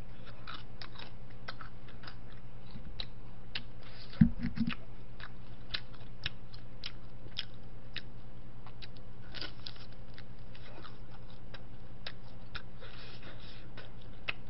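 Crisp crunching and chewing of battered deep-fried Korean snacks (twigim) close to the microphone, in many irregular small crunches. A dull thump comes about four seconds in, over a low steady hum.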